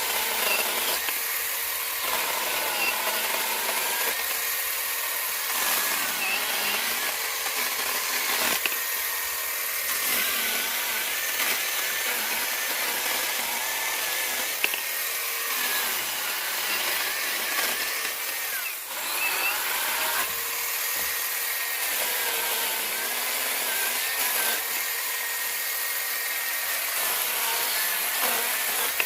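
Cordless 4-inch mini chainsaw running, its chain cutting through green wood in a series of cuts a few seconds each. A steady high motor whine runs over the rasp of the chain in the wood.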